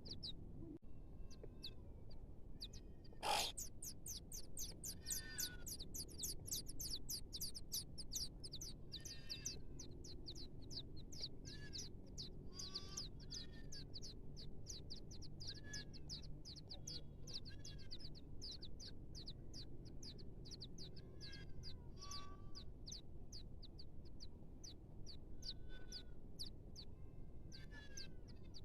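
Small birds chirping: rapid runs of short, high-pitched chirps repeated many times a second, with scattered lower calls in between. One louder call comes about three seconds in.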